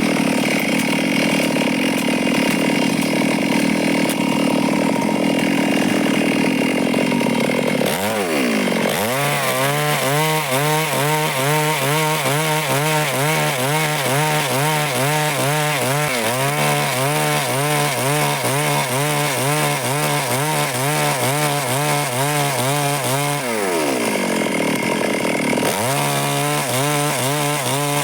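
Stihl chainsaw running hard as it cuts through wood. The engine note dips and climbs again about 8 seconds in, then wavers rhythmically up and down. It drops again near the end and revs back up.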